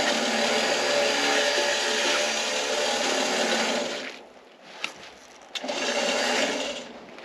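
Crawler tractor engine running steadily while skidding logs, dropping to a much lower level about four seconds in, then picking up again for about a second before easing off near the end.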